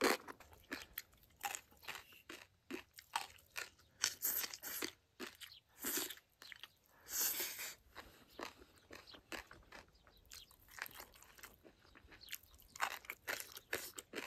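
Close-up chewing and crunching of crisp chili-pickled dried radish with stir-fried pork and rice: irregular crunchy bites and mouth sounds, with one longer, noisier sound a little past halfway.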